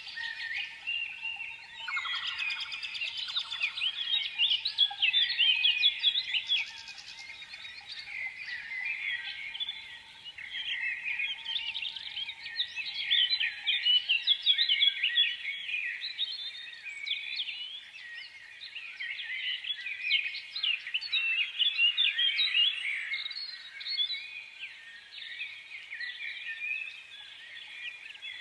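A chorus of many small songbirds chirping and twittering at once, quick overlapping calls without a break, with a couple of short buzzy trills in the first few seconds.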